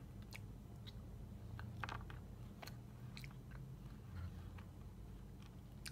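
A person chewing a piece of a chocolate egg shell: faint, scattered clicks and crunches of chewing.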